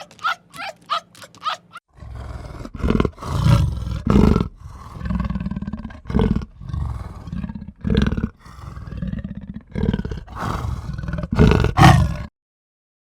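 Wild animal calls. For the first two seconds there is a quick series of short, high calls, then a run of low, loud calls in bursts of half a second to a second. The calls stop abruptly about a second before the end.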